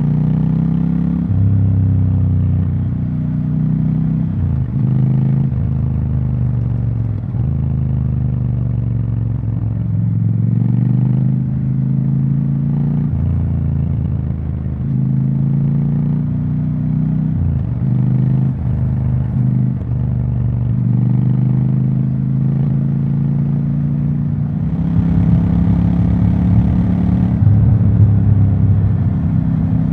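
Triumph Scrambler 1200 XE's 1200 cc parallel-twin engine and exhaust running. The pitch repeatedly drops sharply and then climbs again, with a louder, rougher stretch near the end.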